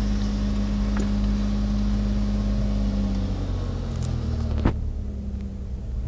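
Ford Contour SVT's 2.5-litre V6 engine pulling the car away from a stop at low revs, heard from inside the cabin. A little over three seconds in the engine note drops and gets quieter, followed by a single short click.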